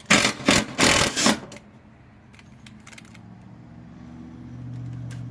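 Hand tools working on the steel fixings of a lawnmower blade: a run of loud metallic scraping and rattling strokes for about the first second and a half, then a few faint clicks. A low steady hum comes in during the second half and grows louder toward the end.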